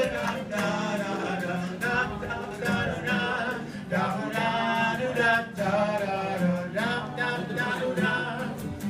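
Music with singing voices: sung notes over a steady low held tone.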